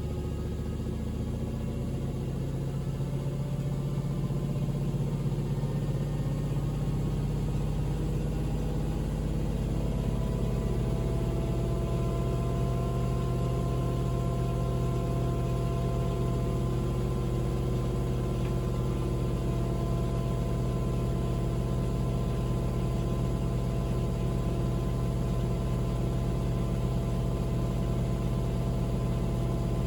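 Panasonic NA-VX9300L drum washing machine running, a steady motor-and-drum hum whose pitch shifts about a third of the way in.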